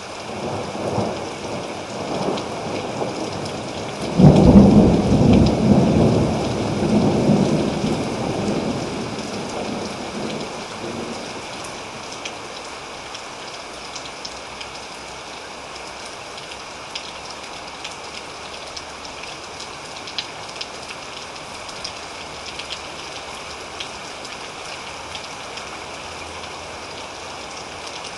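Thunder over steady rain. A low rumble builds for a few seconds, breaks into a sudden loud clap about four seconds in, then rolls and fades away over the next several seconds. Steady rain with scattered drops is left after it.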